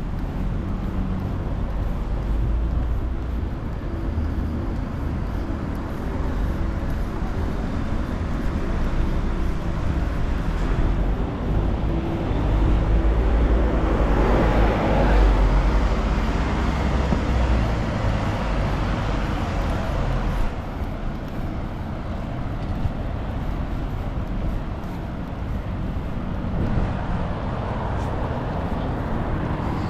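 Road traffic running steadily, with one vehicle passing close about halfway through: a swell that builds, peaks and fades over several seconds.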